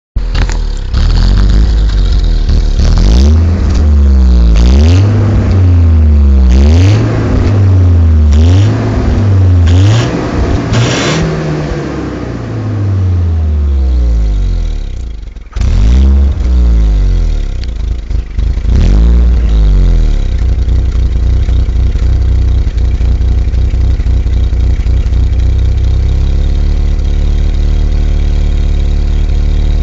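Mercedes-Benz W124 E200 four-cylinder petrol engine through its stock exhaust, run on a VAZ 2110 fuel-injection system: revved quickly again and again, each rev rising and falling in pitch, then settling into a steady idle for the last ten seconds or so.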